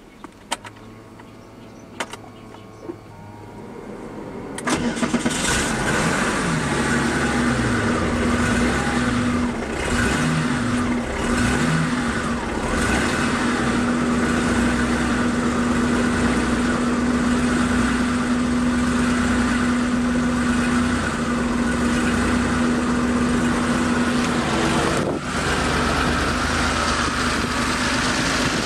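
Porsche 911 air-cooled flat-six started from cold: a few clicks, then the starter cranks and the engine catches about five seconds in. It then settles into a steady high fast idle.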